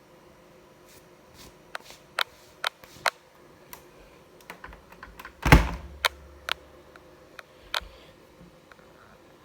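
A series of sharp, irregularly spaced clicks, with one much louder thump about halfway through that is followed by a brief low rumble.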